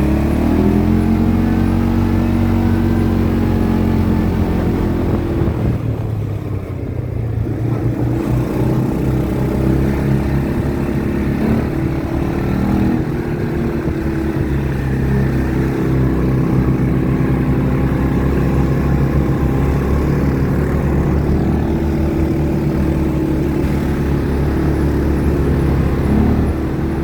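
ATV engine running under way. It revs up at the start, eases off for a couple of seconds about six seconds in, then pulls steadily again with small changes in pitch.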